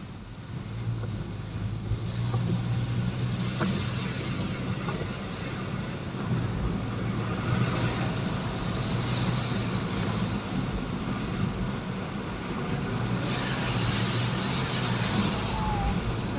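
A motor vehicle travelling on the road: a steady low engine hum under a hiss of road and air noise, with a brief rise in the hiss about three-quarters of the way through.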